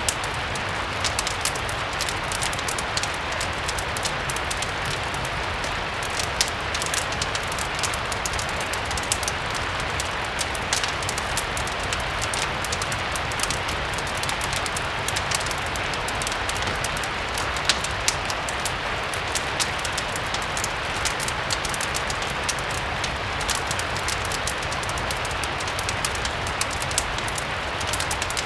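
Steady rain mixed with a crackling fireplace: an even hiss with scattered sharp pops and ticks throughout.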